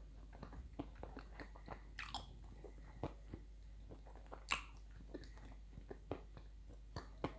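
Close-up crunching and chewing of hard, dry edible clay in the mouth: many short crisp crunches at an uneven pace, with a louder crunch about four and a half seconds in.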